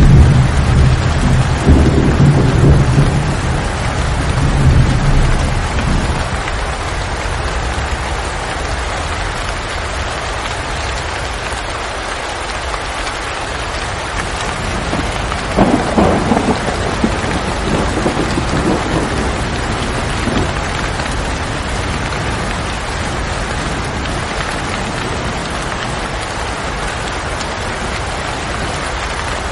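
Steady heavy rain hissing on surfaces, with thunder: a low rolling rumble through the first few seconds, and a second, sharper clap about halfway through that rolls away over the next few seconds.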